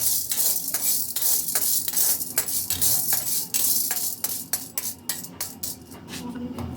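Rapid, irregular clinking and rattling of many small metal pieces being handled and jostled together, loudest in the first few seconds.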